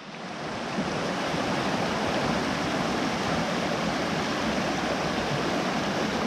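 Stream water rushing steadily, fading in over the first second and then holding level.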